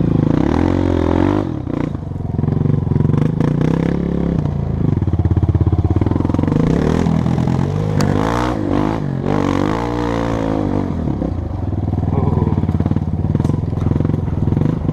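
Honda CRF230F dirt bike's single-cylinder four-stroke engine running on a trail ride, its revs rising and falling repeatedly as the throttle is worked, with scattered short knocks.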